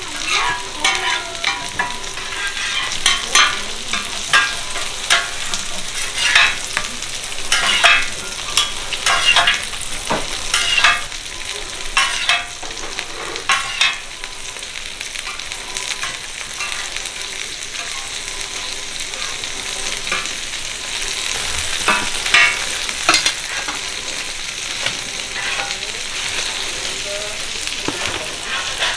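Mung bean pancakes (nokdu-jeon) and egg-battered jeon sizzling steadily in oil on a flat griddle. Metal spatulas scrape and clink against the griddle in short strokes, often during the first half and again briefly about twenty-two seconds in.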